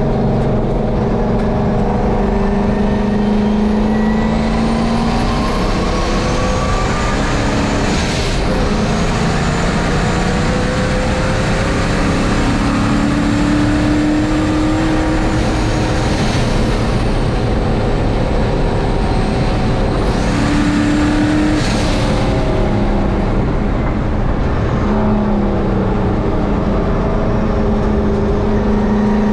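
Turbocharged engine of a 1951 Chevy race truck running hard on a road course, its pitch rising and falling with throttle and gear changes. A high turbo whine climbs as the turbo spools up, then drops off suddenly when the throttle is lifted, a few times over the run.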